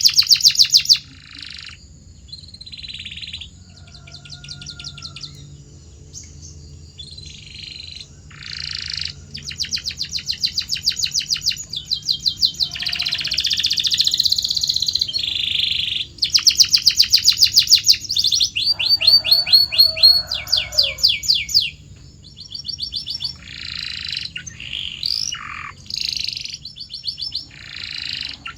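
Domestic canary singing: a long song of phrases, many of them fast rolls and trills of rapidly repeated notes, mixed with whistled slurs and chirps, with short pauses between phrases.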